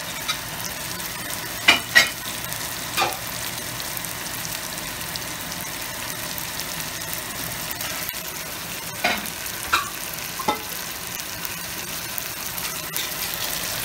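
Chopped onions, green chilies and tomatoes sizzling steadily in hot oil in a pot. A few short, sharp pops or clicks come a couple of seconds in and again around nine to ten seconds.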